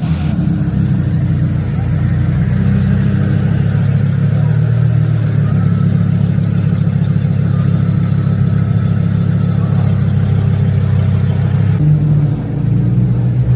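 A car engine running with a deep, steady low rumble, changing abruptly about twelve seconds in.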